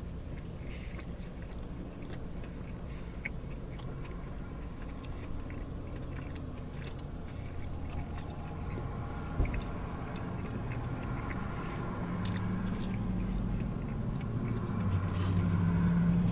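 A person chewing and biting food close to the microphone, with small scattered clicks and crunches of mouth noise. Underneath runs a low steady hum that grows louder near the end.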